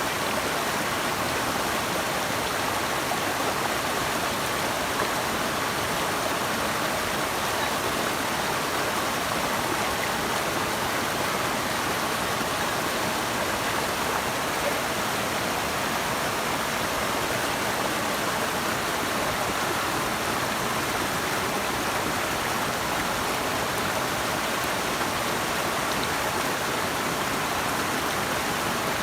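Rushing water: a steady, even rush with no breaks or separate events.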